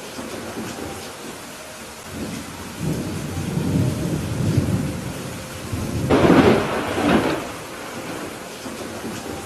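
Thunderstorm: steady rain with rolling thunder. A low rumble builds about two seconds in and a louder, sharper peal of thunder comes about six seconds in, fading back under the rain.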